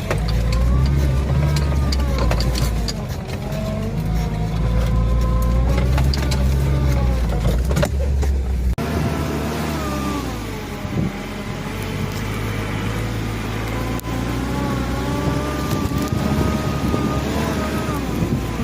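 UAZ off-road vehicle's engine running under load, its pitch rising and falling as it revs. About nine seconds in the sound changes abruptly, the deep low rumble dropping away while the revving goes on.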